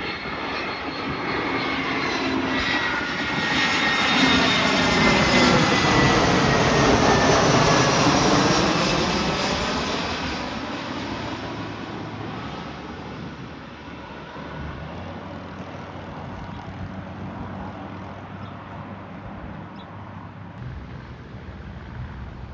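Jet airliner passing low overhead: its engine noise grows to its loudest about five to eight seconds in, with a high whine that slides down in pitch, then fades away steadily.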